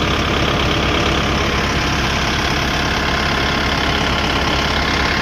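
Kubota 5502 tractor's four-cylinder diesel engine running steadily with an even low chugging pulse.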